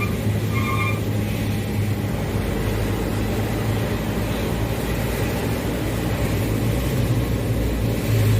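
Mitsubishi Canter dump truck's diesel engine running steadily under a heavy load of wet sand, with road noise, heard while driving. A short two-tone beep sounds twice in the first second.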